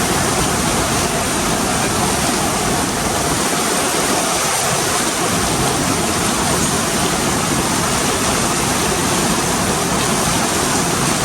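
Heavy rain pouring down steadily, a loud, even hiss of water.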